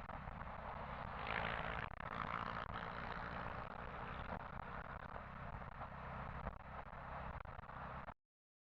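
Faint motorcycle engine running with road and wind noise, steady throughout, until the sound cuts off abruptly about eight seconds in.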